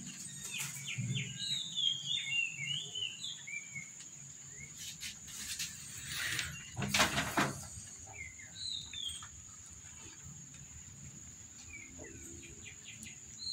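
Small birds chirping in quick warbling bursts, thickest in the first few seconds and then now and again, over a faint steady high-pitched tone. A brief louder noise about seven seconds in.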